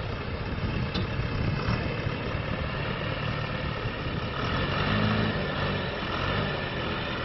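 A heavy vehicle's engine running steadily, growing somewhat louder about five seconds in.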